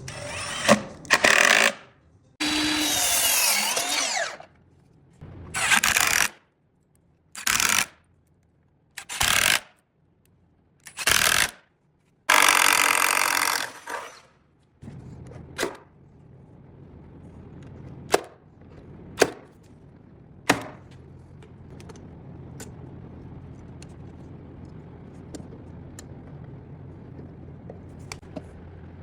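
Power tools running in short bursts, each one to two seconds long and cut off abruptly, about eight in quick succession. After that comes a low steady hum with a few sharp knocks.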